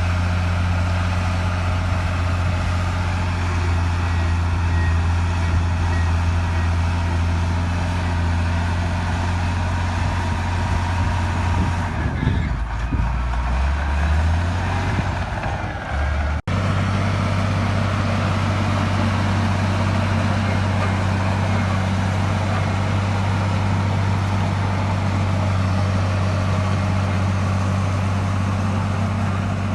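Heavy diesel engine of an earthmoving machine running steadily under load. About twelve seconds in, its pitch sags and it slows for a few seconds, then the sound breaks off for an instant and the steady running comes back.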